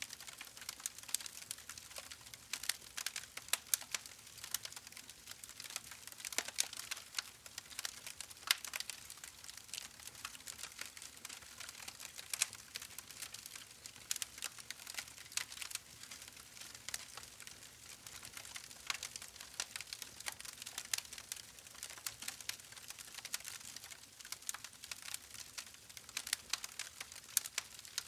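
Wood fire burning in a fireplace, crackling steadily with many irregular sharp pops and snaps over a faint hiss.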